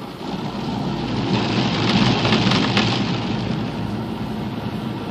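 Automatic car wash spraying water over the car, heard from inside the cabin as a dense rush like heavy rain, swelling loud about two seconds in and then easing a little.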